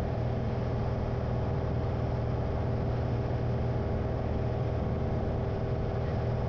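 Single-engine piston airplane's engine and propeller droning steadily inside the cockpit, at reduced power on the approach with the constant-speed prop pulled back.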